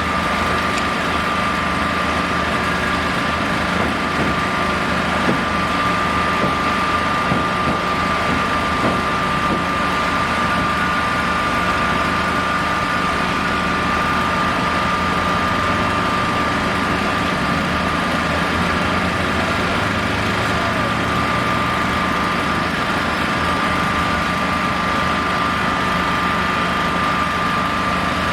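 An engine running steadily at idle, with a constant high tone over its low hum and no change in speed.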